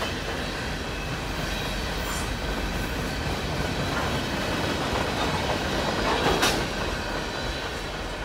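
Freight cars rolling past on the main line: a steady rumble of steel wheels on rail with scattered clicks, and one loud clank about six and a half seconds in.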